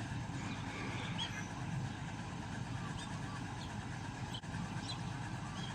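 Combine harvester engine running with a steady low rumble. Faint short high chirps come and go above it.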